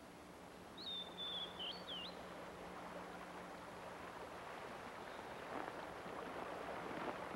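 A small bird gives a single whistled call about a second in, a high held note that ends in two quick upward flicks. Under it is an outdoor rushing noise that swells through the second half.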